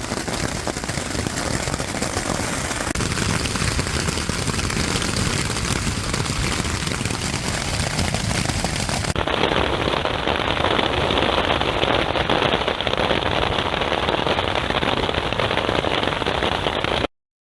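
Hail coming down hard: a dense, continuous rattle of impacts. The sound changes abruptly about nine seconds in and cuts off suddenly near the end.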